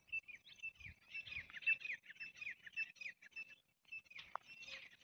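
Small birds chirping: a quick run of short, falling notes, about four a second, which breaks off briefly just before four seconds in and then resumes.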